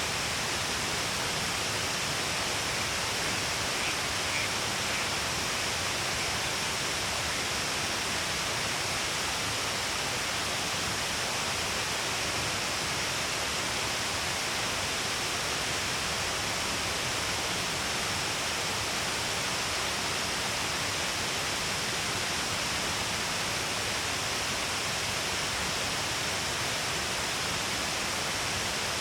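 Shiraito Falls, many thin falls pouring along a cliff face, giving a steady, even rush of falling water with no change.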